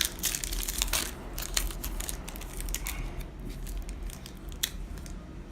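Foil wrapper of a Yu-Gi-Oh! booster pack crinkling and tearing as it is opened by hand. The crackles come thick for about the first second and a half, then thin out to scattered ones.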